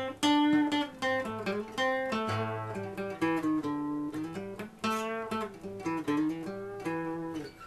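All-mahogany Washburn acoustic guitar being picked, a short run of plucked notes, each struck and left to ring, roughly one every half second to a second.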